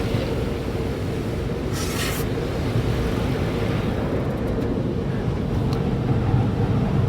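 Car wash tunnel machinery heard from inside the car: a steady low rumble of motors with brushes rubbing over the body, and a short hiss about two seconds in.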